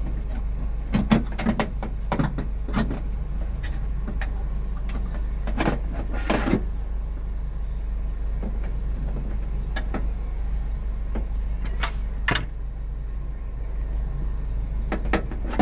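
Scattered clicks and knocks from hand work on a car door's power window parts, over a steady low hum. A short scraping rush comes about six seconds in, and a sharp knock about twelve seconds in.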